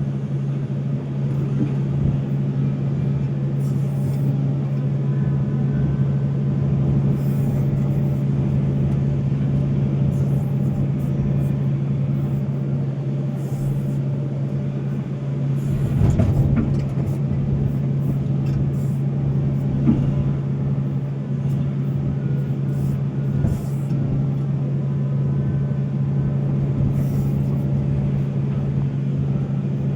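Volvo excavator's diesel engine running steadily under work, with a brief louder rumble about halfway through.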